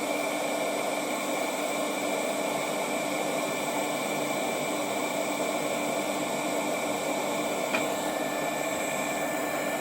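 ATTEN ST-862D hot air gun's brushless fan blowing air through the nozzle: a steady rushing hiss with faint steady whines in it. A small click sounds near the end.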